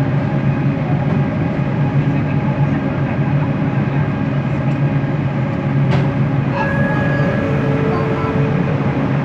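Bombardier Innovia ART 200 metro train running, heard from inside the car: a steady rumble with a low hum and thin whining tones from its linear induction motors. A brief click comes about six seconds in.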